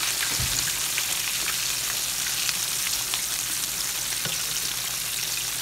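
Floured ribs frying in hot oil in a skillet: a steady crackling sizzle. A soft low bump about half a second in as the ribs are turned with tongs.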